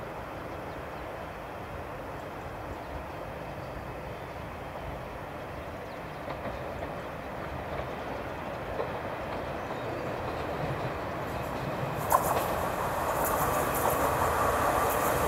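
Croatian Railways electric multiple unit approaching, its rolling rumble growing steadily louder. About twelve seconds in a sharp clack marks the wheels reaching the points, and a brighter metallic clatter of wheels over the rail joints and crossings follows.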